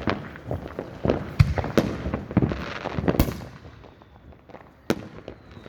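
Fireworks going off, a rapid run of bangs and crackling with one bang standing out about three seconds in. It eases off briefly before another sharp bang near the end.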